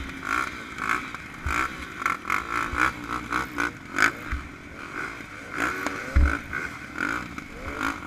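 Dirt bike engines revving in uneven blips and rising pulls, with clatter and a few low thumps.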